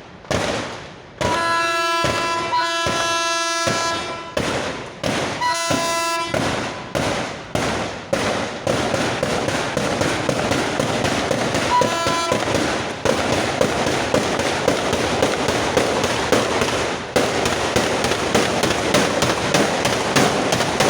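Railway track detonators going off under a train's wheels in a long, rapid string of sharp bangs, the warning-signal charges clipped to the rail. A train horn sounds a steady note for a few seconds near the start, again briefly about six seconds in, and once more for a moment around twelve seconds.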